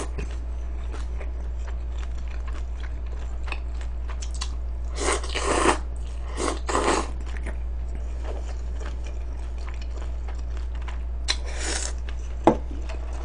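A person chewing food close to the microphone: soft wet clicks throughout, a few louder noisy swells, and one sharp click near the end, over a steady low hum.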